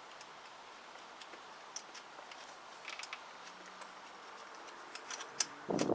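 Scattered small metallic clicks and taps from hand-threading the exhaust bolts on a scooter, with a cluster of louder knocks near the end.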